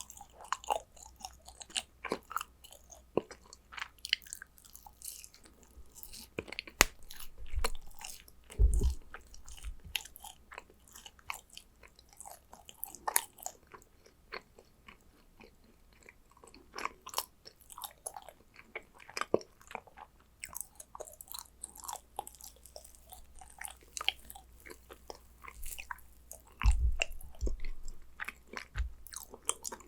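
Close-miked chewing and biting of yakgwa, Korean honey-glazed fried cookies: many small irregular clicks and crackles, with a few low thumps about nine seconds in and near the end.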